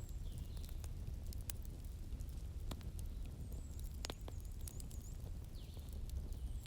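Wood bonfire crackling: irregular sharp pops and snaps over a steady low rumble of burning, with a few faint high chirps in the background.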